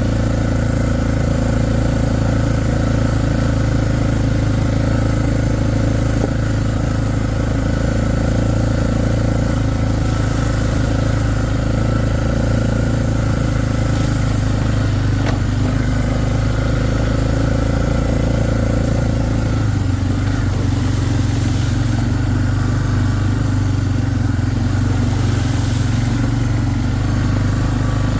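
A vehicle engine running steadily while driving, its pitch shifting a little about two-thirds of the way in.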